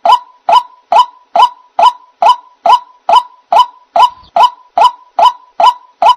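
White-breasted waterhen (ruak-ruak) call played as a bird-trapping lure: one short note repeated evenly, a little over two a second.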